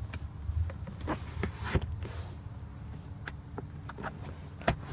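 A few light clicks and knocks of plastic interior trim being handled, the rear centre armrest and its dual cup holder, with the sharpest knock near the end, over a steady low rumble.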